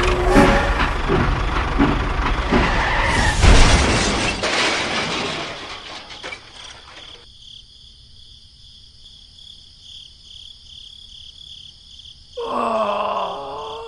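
A loud crash with clattering, breaking debris that fades away over several seconds. Near the end comes a short, falling, groan-like voice sound.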